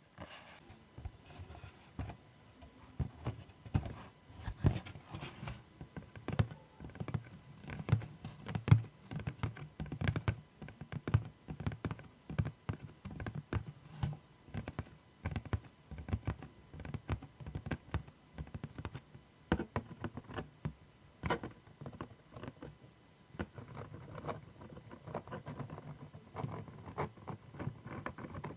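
Close-miked ASMR tapping and scratching on a surface: a continuous stream of quick, irregular taps with scratchy strokes between them.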